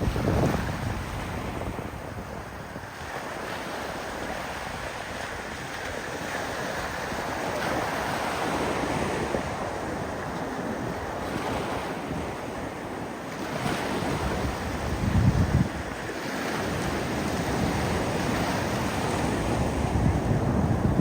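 North Sea surf: waves breaking and washing in a steady rush that swells and eases, with wind buffeting the microphone in low gusts, most strongly about two-thirds of the way through and near the end.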